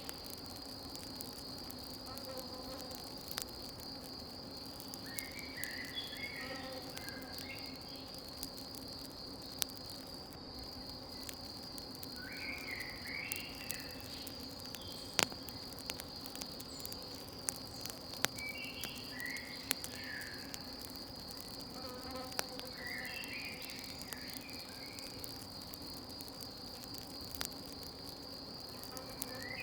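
Crickets chirring in a steady, high, unbroken trill, with scattered sharp pops of a crackling campfire, the loudest about halfway through. Short, irregular higher calls come and go every few seconds.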